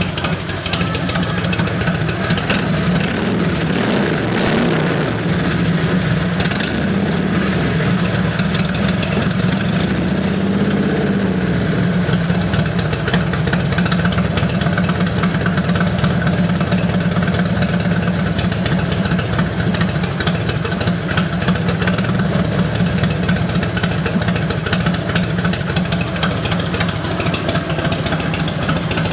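Harley-Davidson Road King's Twin Cam 88 V-twin engine idling steadily with an even, loud beat, its pitch shifting slightly a few times in the first dozen seconds.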